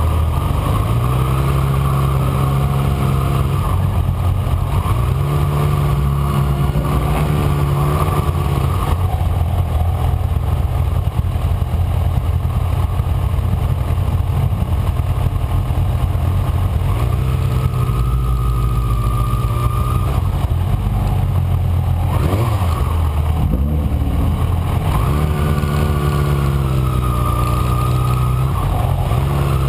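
Kawasaki Ninja ZX-6R inline-four engine heard from on board, running at speed with the revs stepping up and down several times as the throttle and gears change, and a dip and rise in revs about three-quarters through. A steady rushing noise runs under it.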